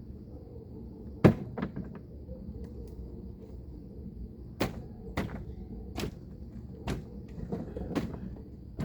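Pieces of firewood thrown onto a bonfire pile, knocking against the stacked wood: one loud knock just over a second in, followed by a couple of lighter ones, then a string of knocks about a second apart in the second half.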